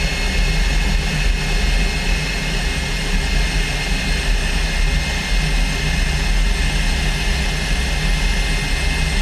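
L-29 Delfin's Motorlet M-701 turbojet running steadily with a high turbine whine, held at low power to let it cool down before shutdown.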